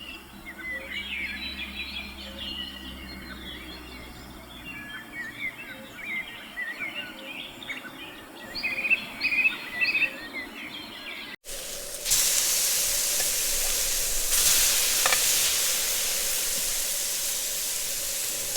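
Several wild birds chirping and singing. About eleven seconds in, a sudden cut to a louder, steady hiss.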